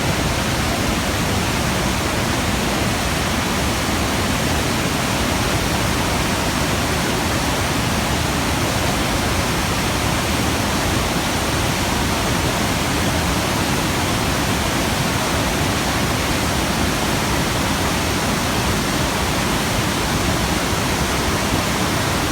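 The Rhine Falls: a large waterfall's steady, unbroken rush of heavy falling water, loud and even.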